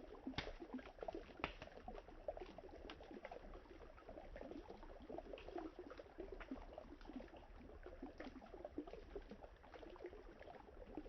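Wood campfire crackling steadily with small pops, and a couple of sharper snaps near the start, over the soft sound of river water.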